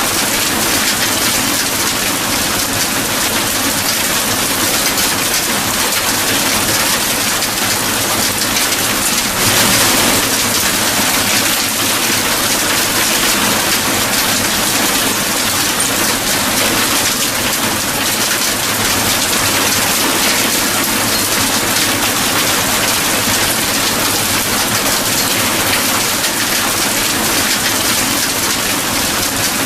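Steady heavy rain, a dense even hiss of drops, with one brief louder swell about ten seconds in.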